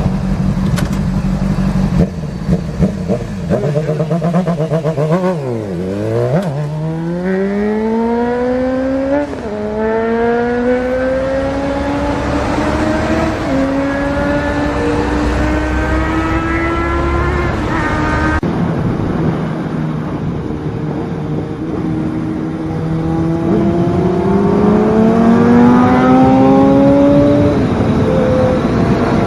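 Sportbike engine accelerating hard through the gears. Its pitch climbs, drops at each upshift and climbs again several times, then holds steadier for a while before climbing once more near the end.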